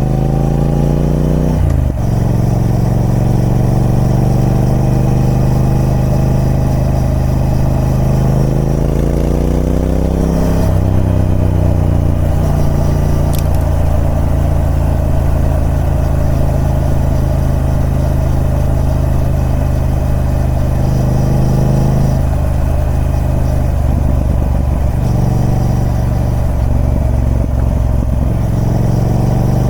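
Triumph Speed Twin 1200's parallel-twin engine through its stock exhaust, revs rising under acceleration and dropping sharply with an upshift about two seconds in and again about ten seconds in, then holding a steady note.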